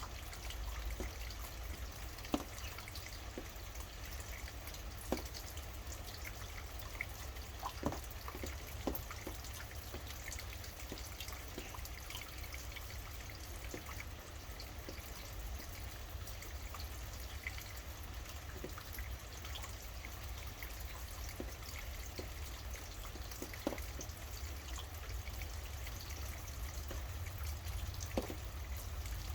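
Steady rain with water dripping. Now and then a single louder drop strikes close by, most of them in the first ten seconds and two more near the end.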